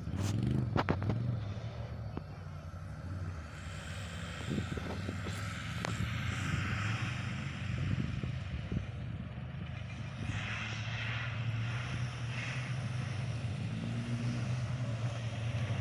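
A steady low engine-like drone, with a few sharp clicks in the first second and a hissing rustle that swells and fades in the middle.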